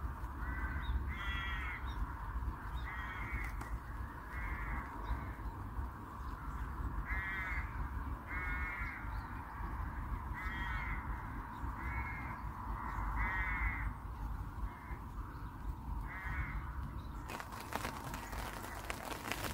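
A bird calling over and over, a dozen or so short calls a second or two apart. About seventeen seconds in, a steady hiss of harder rain drumming on the fishing umbrella sets in.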